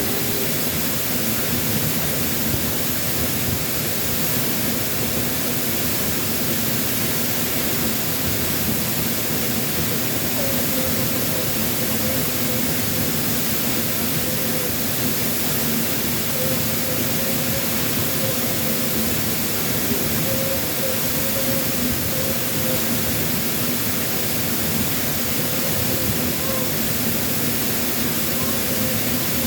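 Steady, full-bodied roar of a waterfall running after a typhoon, a hiss across all pitches with no let-up. A faint wavering voice sounds under the roar from about a third of the way in.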